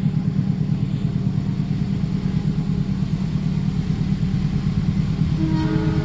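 A train running past a level crossing: a steady, heavy low rumble with a fast pulsing beat. A pitched, multi-toned sound joins in near the end.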